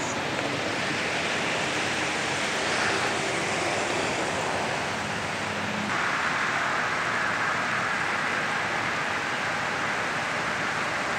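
Steady hiss of falling rain, turning brighter about six seconds in.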